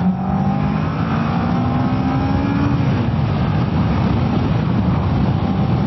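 Kawasaki ER-6f parallel-twin engine accelerating, its note rising steadily for about three seconds, then dropping back under steady wind and road noise.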